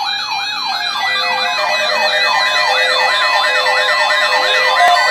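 Electronic siren yelping, its pitch sweeping up and down about three times a second, with steady tones joining in from about two seconds in.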